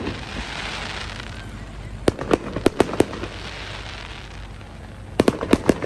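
Fireworks going off in two quick volleys of sharp bangs, about five each: one about two seconds in and one near the end, with a hiss between the volleys.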